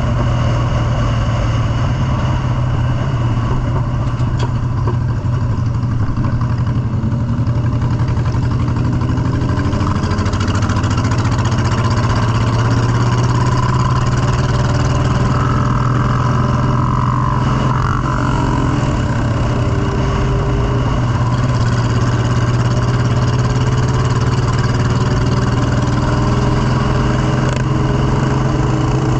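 Motorcycle engine running steadily under way with a constant low drone. Several rising engine notes come in from about a third of the way through.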